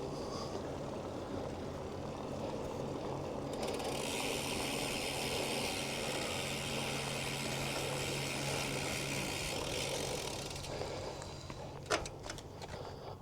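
Bicycle freewheel ticking as the bike coasts: a dense, fast high-pitched buzz starts about four seconds in and stops about three seconds before the end, followed by a few sharp clicks near the end.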